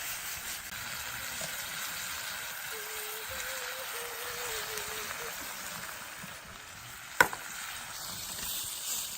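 Food sizzling steadily in a pan over a campfire, with tomatoes, peas and lemon just added. One sharp click sounds about seven seconds in.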